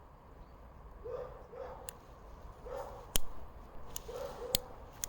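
A gas lighter being struck several times with sharp clicks and failing to light in the frost; the loudest strike comes about three seconds in. A dog barks faintly in pairs throughout.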